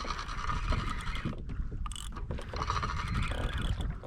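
Fishing reel working on a kayak, a fast steady ratchet-like clicking from its gears, over low water and hull rumble.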